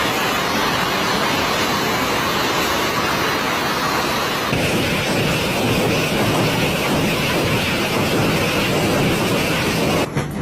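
Heavy hail pelting down, a loud, dense, steady roar of countless impacts; its tone shifts about halfway through.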